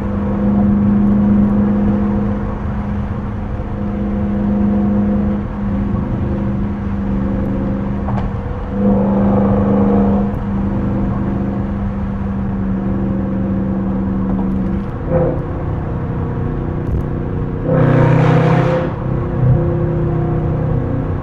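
Dodge Charger R/T's 5.7-litre HEMI V8 running at a steady cruise, heard from inside the cabin as a constant low drone. About eighteen seconds in a brief, louder rushing burst rises over it.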